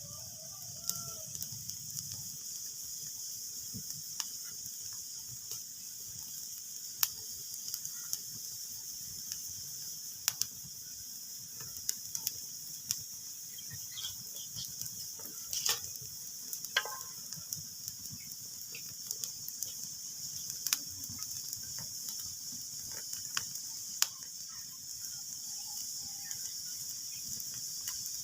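Wood fire crackling in a fireplace: a steady hiss with sharp pops and snaps scattered irregularly, every second or few.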